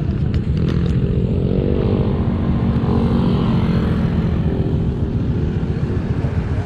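Motorcycle engine pulling away and accelerating, its note rising twice in the first few seconds, then running steadily under a heavy low rumble of wind and road noise on the rider's microphone. A few sharp clicks come just at the start.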